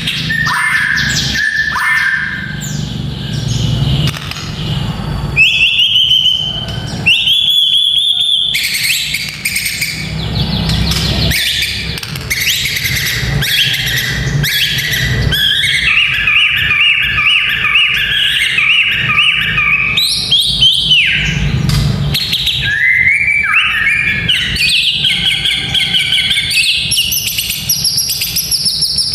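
White-rumped shama (murai batu) singing a varied song of whistled phrases and rising slurs, with runs of fast repeated rattling notes.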